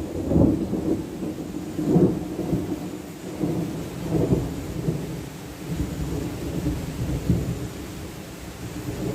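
Rainstorm: steady rain with a low, irregular rumbling that swells and fades every second or two.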